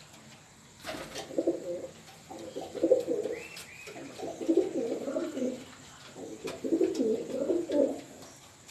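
Pigeon cooing: four low, warbling coo phrases, each about a second long with short pauses between.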